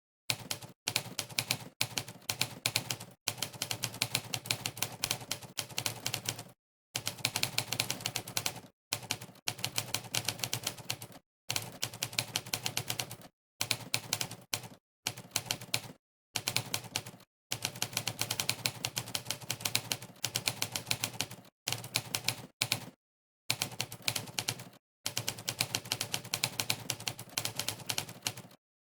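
Typewriter keystroke sound effects, the 'typewriter' keypress sound of the Monkeytype typing test, clicking rapidly in runs as someone types. The runs are broken by about a dozen short gaps of dead silence.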